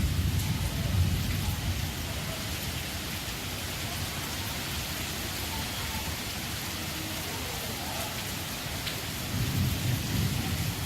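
Heavy rain falling with a steady hiss, with gusts of wind rumbling low in the first second or so and again near the end.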